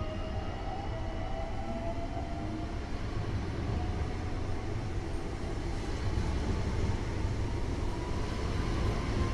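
Electric commuter train (SKM multiple unit) pulling away from the platform. Its traction motors whine, rising slowly in pitch for the first couple of seconds as it gathers speed, then fade under a steady low rumble of the carriages rolling past.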